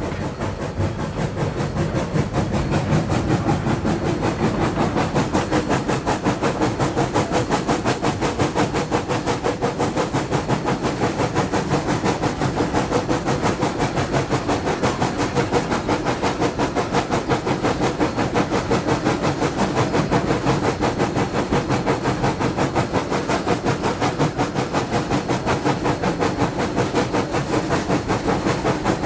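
Narrow-gauge steam locomotive working under way, its exhaust chuffing in a fast, even rhythm over a steady hiss of steam.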